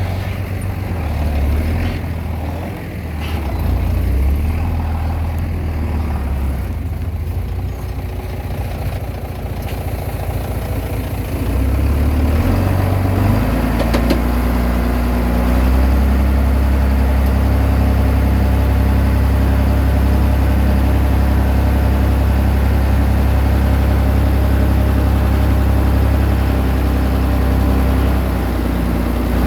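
Diesel engine of a Komatsu D20P bulldozer running while pushing soil. Its pitch shifts about for the first half, then it holds a steadier, slightly louder drone from about halfway through.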